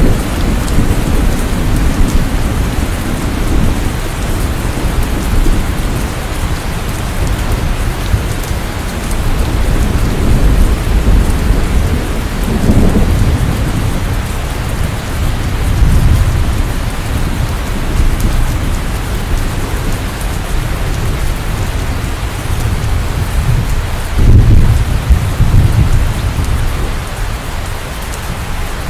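Steady rain with thunder rumbling in low swells several times, the strongest one near the end.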